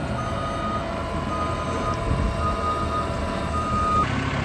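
A reversing alarm on farm machinery beeping about once a second, four half-second beeps, over the steady running of heavy engines.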